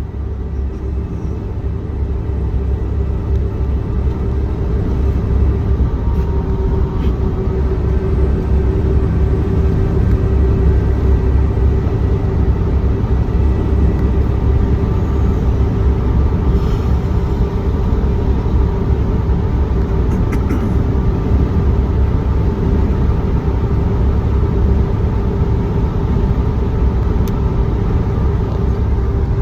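Engine and road noise of a truck heard from inside the cab while driving: a steady low rumble that grows louder over the first several seconds as the truck picks up speed, then holds steady.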